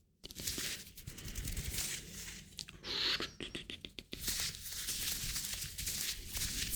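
Close-miked ASMR hand sounds: continuous rubbing and crinkling with quick crackles, and a brighter hiss about three seconds in.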